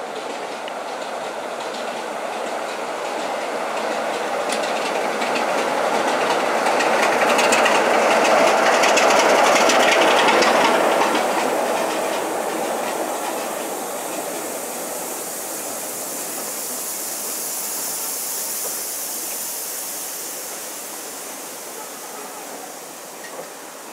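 A heritage train passing close by: its running sound and the clicking of wheels over rail joints build to a peak about nine seconds in, then fade as the coaches roll on, with a high hiss in the later part.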